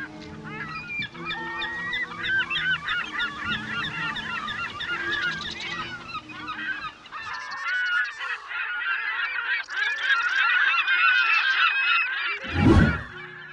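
A crowd of many overlapping goose-like honking calls. A low sustained tone runs under the calls through the first half, and near the end there is a single loud deep boom.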